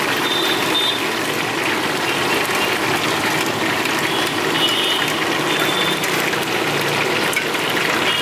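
Onion, cashew, ginger and garlic paste frying in oil in an iron kadai, a steady sizzle, with the metal ladle scraping the pan now and then as it is stirred.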